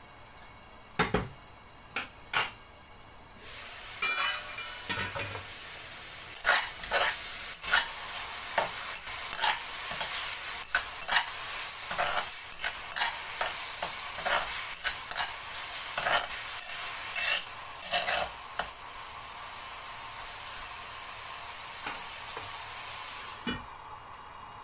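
Sliced marinated pork sizzling in hot oil in a steel wok while a metal spatula stirs it, scraping and knocking against the pan. A few metal clinks come first, and the sizzle starts about three seconds in. The sizzle drops away near the end as the lid goes on.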